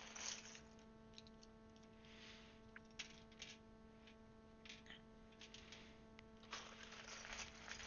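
Faint, scattered clicks and rustles of plastic keycaps being handled and fitted onto a mechanical keyboard, a little busier near the end, over a steady low electrical hum.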